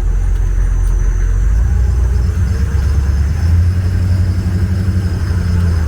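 M1042 Humvee's diesel engine running steadily. Its low drone steps up in pitch twice, first about a couple of seconds in and again a little past the middle.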